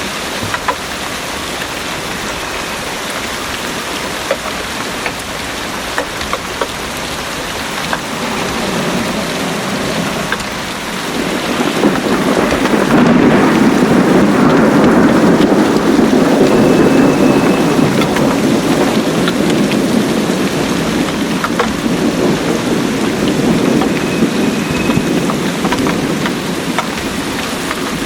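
Heavy rain falling steadily, with individual drops ticking. A long roll of thunder builds about ten seconds in, stays loudest for several seconds, then slowly fades near the end.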